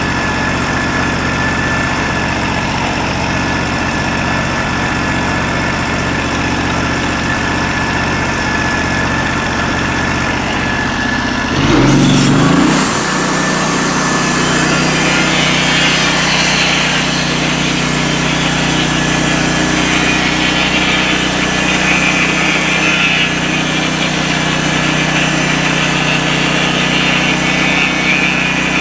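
Norwood LM29 portable bandsaw mill's 16 hp engine idling steadily, then throttled up about twelve seconds in, its pitch rising quickly, and running on steadily at speed with the band blade turning.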